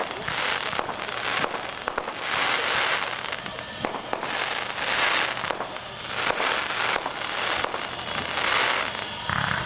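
Steam locomotive exhaust chuffing slowly and unevenly, a hissing beat about every second or so, with a few sharp clicks among them.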